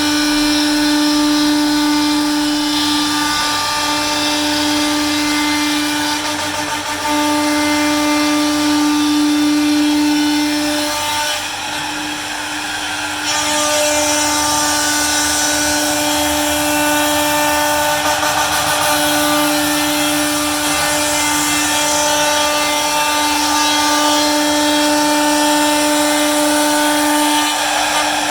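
CNC router spindle running at a steady high whine while cutting, with a rasping cutting noise that changes as the bit moves. The whine breaks briefly several times, and the sound dips quieter for a couple of seconds around the middle.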